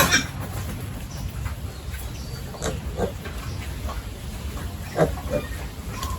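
Pigs grunting a few short times, in two pairs, over a steady low rumble.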